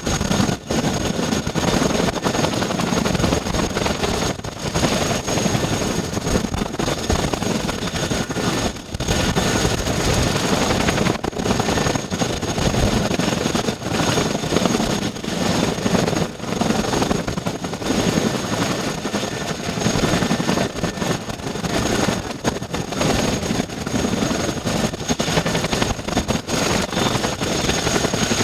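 Boeing CH-47 Chinook's twin turboshaft engines running with the rotors turning: a dense, steady rush of noise with a fast flutter and a constant high turbine whine.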